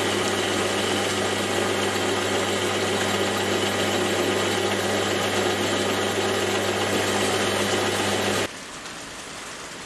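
Metal lathe running steadily, turning a hinge pin with a light finishing cut of a few thou. It stops suddenly about eight and a half seconds in, leaving a fainter steady hiss.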